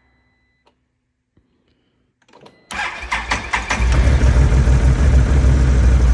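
Near silence with a few faint ticks, then about two and a half seconds in the ATV's engine is cranked and fires suddenly, running loud and uneven on a tank still contaminated with diesel after a refill of fresh gasoline.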